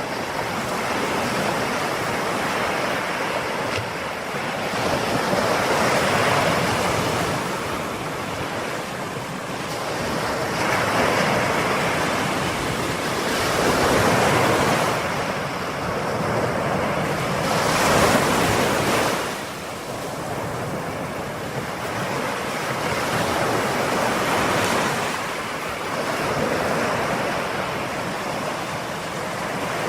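Ocean waves breaking and washing in, swelling and easing every few seconds with no other sound.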